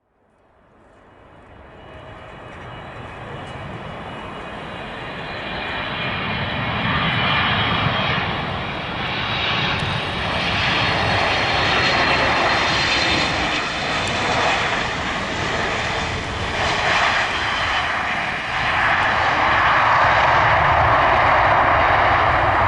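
Jet engine noise of a landing Boeing 777-300ER, from its two General Electric GE90-115B turbofans. It fades in from nothing, builds over the first several seconds as the airliner approaches, and then holds loud and steady.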